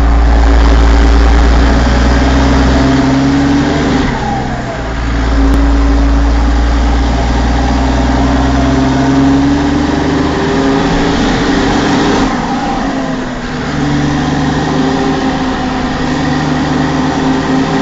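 New Holland TM190 tractor's turbocharged diesel engine running hard with its turbo whistling; the revs drop briefly and come back up twice, about four seconds in and again near thirteen seconds.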